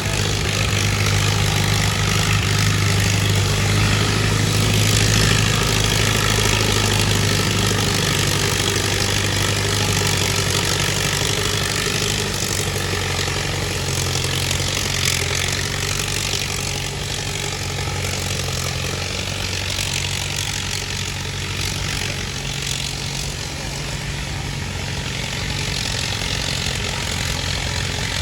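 Antique farm tractor engine running steadily with a low, even hum. It is loudest for the first dozen seconds, then grows somewhat fainter.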